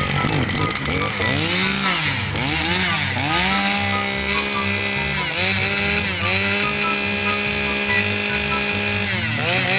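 Stihl FS460 brush cutter's 46cc two-stroke engine being revved: a few quick throttle blips up and down, then held at high revs for stretches, dropping back briefly between them and again near the end.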